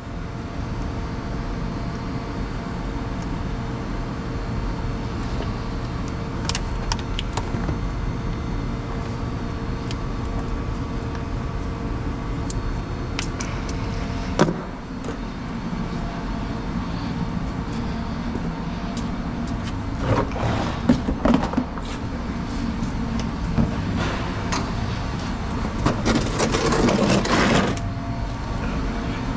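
A vehicle engine running steadily at idle, with scattered clicks, a single knock about halfway through and a noisy rattling burst near the end.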